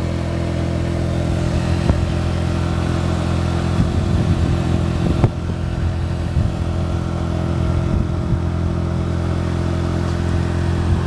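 A steady low mechanical hum, like an engine running at an even speed, with a few faint knocks.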